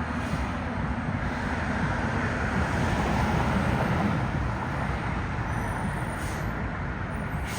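Mack MRU front-loader garbage truck's engine running with a deep, low-pitched rumble, growing louder for a couple of seconds in the middle. There are short hisses of air near the start and twice near the end.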